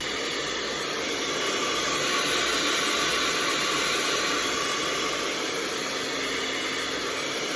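Handheld blow dryer running steadily, drying adhesive spray on a wig cap.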